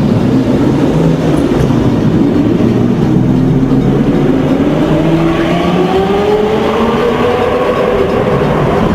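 An exotic sports car's engine accelerating, its note rising smoothly and steadily for several seconds.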